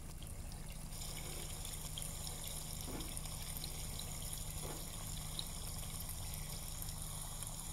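Chicken pieces sizzling steadily as they fry in oil in a nonstick pot, with a couple of faint ticks.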